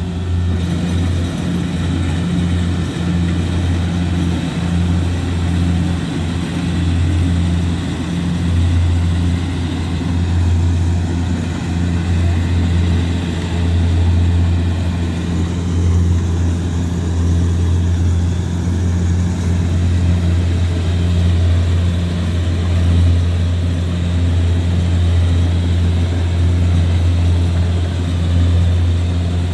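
Kubota DC-70G Plus combine harvester's diesel engine running steadily, a constant low drone with no change in speed.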